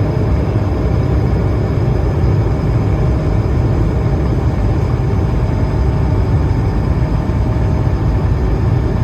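Cabin noise aboard an Airbus A220-300 climbing out after takeoff: a steady rumble of airflow and its Pratt & Whitney PW1500G geared turbofan engines, with faint steady whining tones above it.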